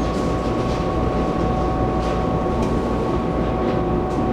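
Running sound inside an EMU700 electric multiple unit train: a steady low rumble of wheels on the track, with two thin steady high tones over it.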